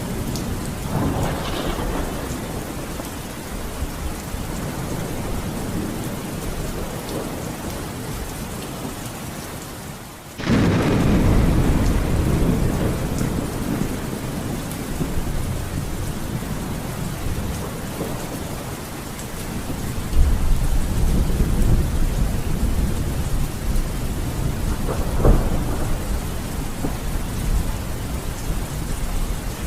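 Steady heavy rain with rolling thunder. After a brief dip about ten seconds in, a loud low rumble of thunder comes in suddenly, and another rumble builds about two-thirds of the way through with a sharp crack near the end.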